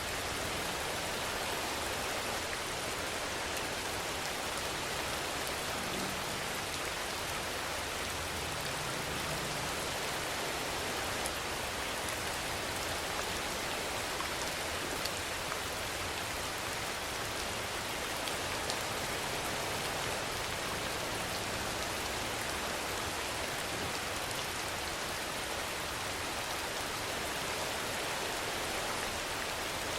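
Steady rainfall: an even, unbroken hiss with a few faint drop ticks.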